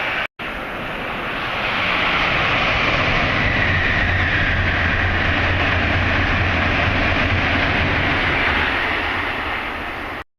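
Tohoku Shinkansen high-speed train passing at speed: a loud rushing of air and wheels that builds over the first couple of seconds, holds with a slight downward slide in pitch, then eases off and cuts out near the end.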